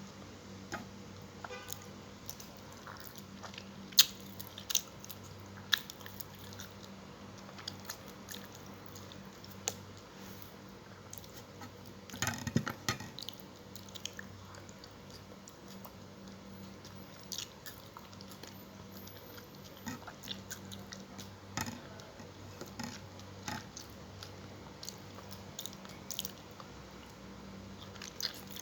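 A person chewing and biting close to the microphone while eating fried tilapia and spinach, with scattered crisp crunches and mouth clicks and a louder run of chewing about halfway through. A faint steady low hum runs underneath.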